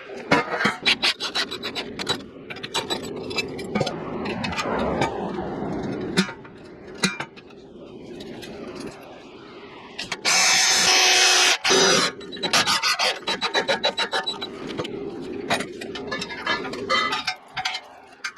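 Tools working on metal: rough scraping, rasping and many sharp knocks and taps. A little past the middle comes a loud, steady burst of a power tool lasting about two seconds, then more tapping.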